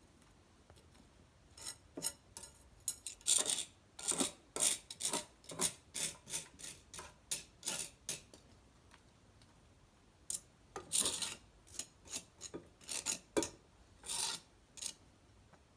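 Dry cedar branches and bark being broken up and handled: a run of short rasping, rustling strokes, a pause of about two seconds, then a second run.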